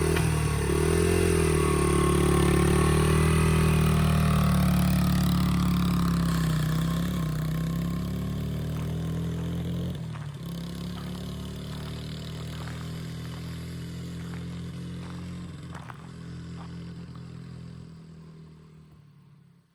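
Motorcycle engine running, revving up and down a few times at first, then running steadily and growing fainter until it fades out near the end, with a few light clicks.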